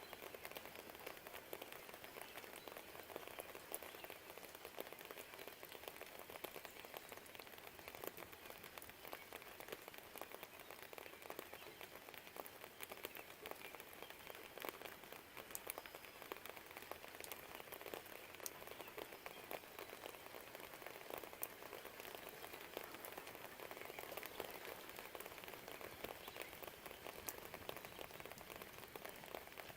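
Steady rain falling: a faint, even patter of many small drops, with an occasional sharper drip standing out.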